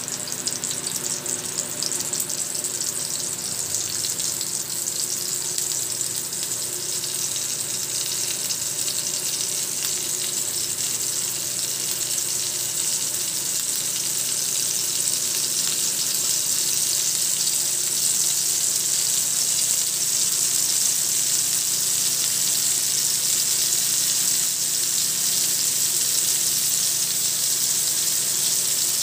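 Chicken seekh kebabs on steel skewers sizzling in a little oil on a hot iron tawa: a steady frying hiss that grows slightly louder as more skewers are laid on.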